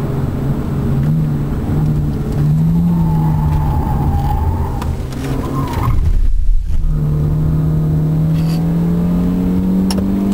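Volkswagen New Beetle engine heard from inside the cabin on a race track, its note dipping and rising through a corner, with a brief high tyre squeal about three seconds in. A heavy low bump about six seconds in, then the revs climb steadily under acceleration through the rest.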